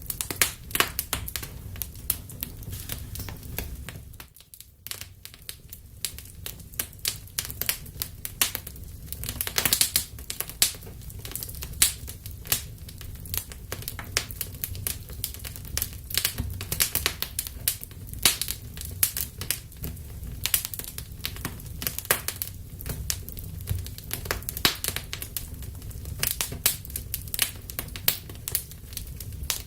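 Wood fire burning in a fireplace: dense, irregular crackles and sharp pops over a steady low rumble of flame. The sound dips briefly about four seconds in.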